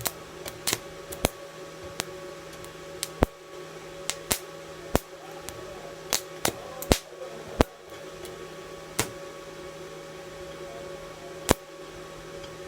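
Inverter welding machine humming steadily in TIG mode, with sharp, irregular cracks of the arc striking and breaking off, more than a dozen scattered through, as the TIG weld fails to hold a steady arc.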